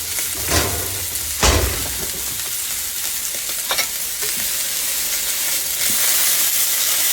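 Hamburger steaks sizzling in a cast iron skillet, a steady hiss that swells a little near the end. A few knocks of cookware come through it, the loudest about one and a half seconds in.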